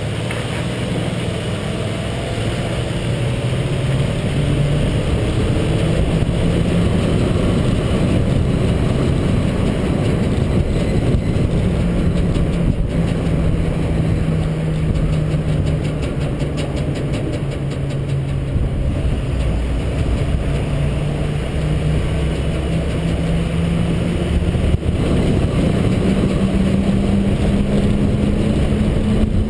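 International 4300 dump truck's diesel engine running while the truck is driven, its note rising and falling in pitch several times, over steady road and wind noise.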